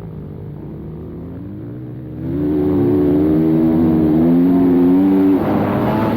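Dirt bike engine running, with the throttle opened about two seconds in and held at higher revs, then eased off near the end.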